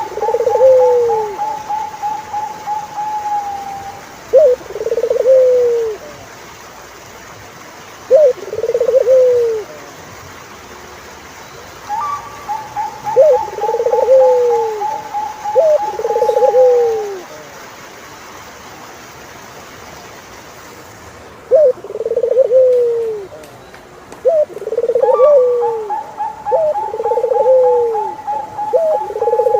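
Turtle doves cooing: short arched coo notes of about a second each, in runs. Three times a longer, even trill of rapid pulses, pitched a little higher, runs for about four seconds.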